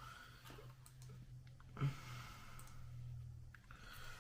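Faint clicking with one sharper knock about two seconds in, over a low steady hum.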